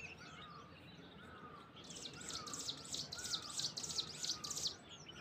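Wild birds calling in hillside forest: one bird repeats a short, curved whistled note about every half second, and from about two seconds in a rapid, high chirping chatter joins for a couple of seconds, then stops.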